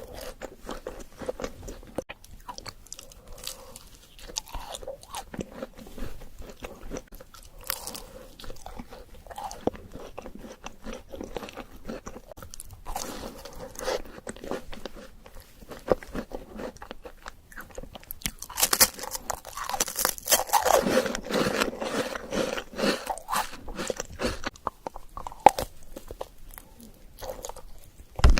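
Close-miked crunching and chewing of an Oreo chocolate dessert, with many small crackles throughout and a louder run of crunching about two-thirds of the way through.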